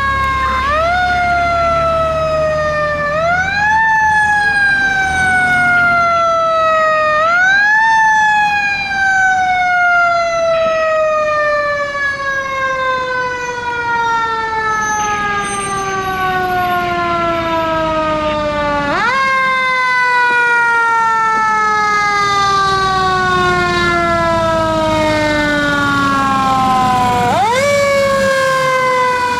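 Fire truck's mechanical siren winding up quickly and coasting slowly down, again and again: three short rise-and-fall cycles a few seconds apart, then a long wind-down of about ten seconds before it is run up again. A low engine rumble runs underneath.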